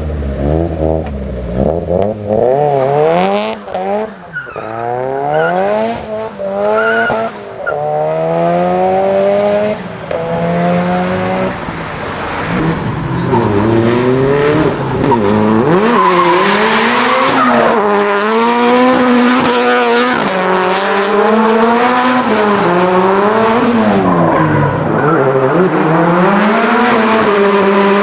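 Nissan Silvia drift car with its engine revving hard, climbing in pitch again and again as it pulls through the gears. From about halfway on, it is held high on the throttle and rises and falls, with tyres squealing in a slide.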